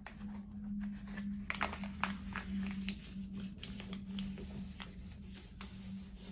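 A sheet of folded paper being handled and creased: scattered crinkles and rustles as it is opened out and flattened into a square, over a low steady hum.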